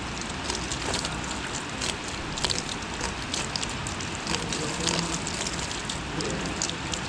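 Rain falling steadily, a constant hiss with many individual drops ticking sharply close to the microphone.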